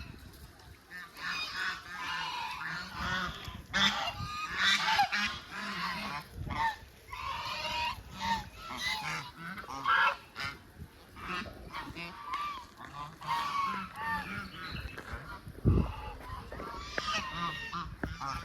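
A flock of waterfowl honking and calling, many short overlapping calls from several birds at once, with a low bump near the end.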